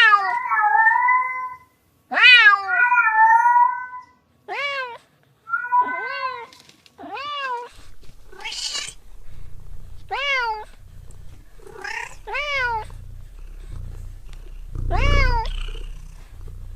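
Domestic cat meowing over and over: about a dozen short meows, each rising then falling in pitch, some in quick runs of two or three. A low rumble runs underneath from about eight seconds in.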